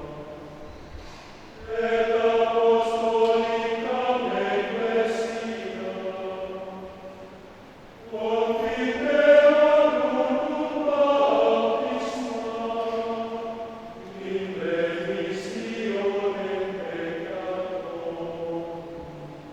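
Men's choir singing sustained, chant-like phrases in harmony. There are three phrases, each starting loud and then fading, beginning about two, eight and fourteen seconds in.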